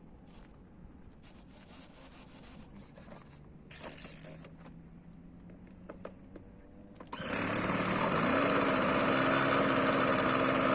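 Faint clicks and handling noises, then about seven seconds in the OS 55 two-stroke nitro glow engine of an RC model airplane starts running loudly, its pitch rising briefly before settling to a steady run.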